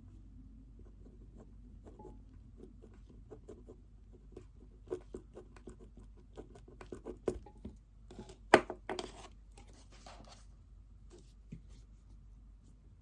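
Pen writing on paper, with many small scratches and taps, a sharp knock a little past halfway and a brief rustle of paper just after it.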